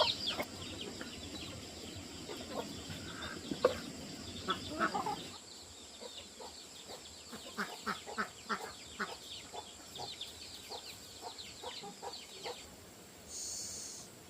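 Chickens clucking, with many quick high peeps that drop in pitch, thickest in the first few seconds and again in the second half. A short hiss near the end.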